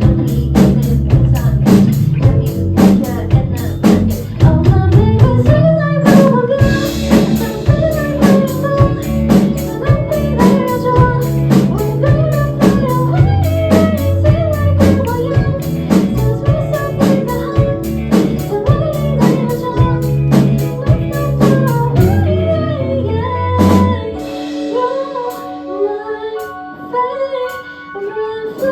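A live band, with female lead vocal over electric guitar, keyboards, bass guitar and drum kit, plays a pop song to a steady beat. About three-quarters of the way through, the drums and bass drop out, leaving the voice over lighter keyboard and guitar parts.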